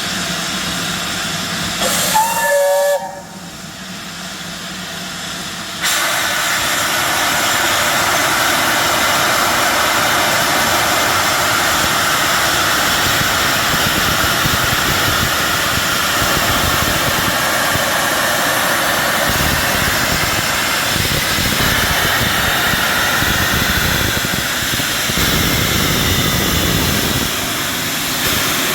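Steam locomotive 70000 Britannia, a BR Standard Class 7, giving a short whistle about two seconds in, then a loud, steady hiss of escaping steam from about six seconds in as it departs.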